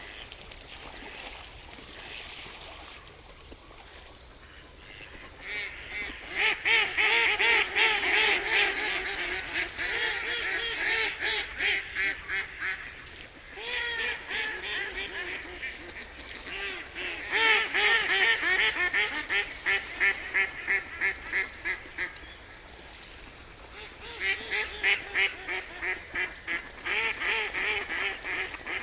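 Ducks quacking in long, rapid series, several calls a second, in four bouts with quieter pauses between them.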